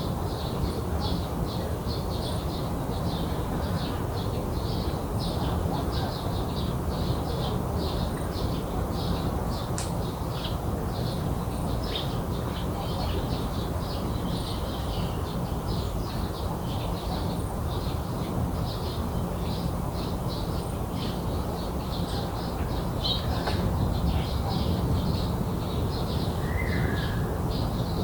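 Small birds chirping in a long run of short, high calls, about two a second, over a steady low rumble.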